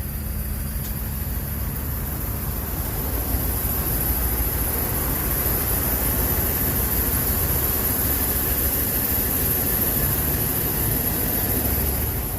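Steady low rumble under a constant high hiss, growing somewhat louder after about three seconds.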